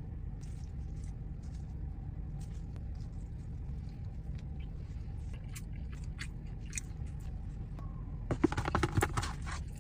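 Eating and food-handling sounds over a steady low rumble: scattered small clicks and taps, then a loud burst of crunching and crackling about eight and a half seconds in that lasts about a second.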